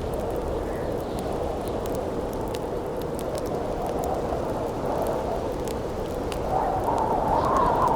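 Campfire crackling with scattered sharp pops over a steady wind, which swells into a louder gust near the end.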